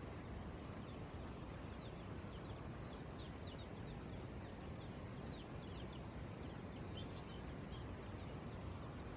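Birds chirping: many short, quick high chirps over a steady background hiss, busiest in the middle of the stretch.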